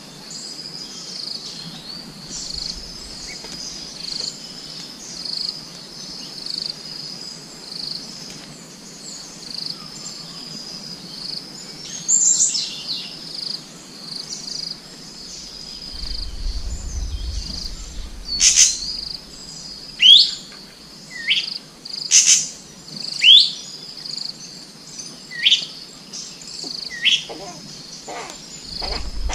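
Insects trilling in a steady, pulsing high drone, joined after about half the time by a bird giving a series of sharp, high calls that each sweep steeply downward in pitch, about one a second.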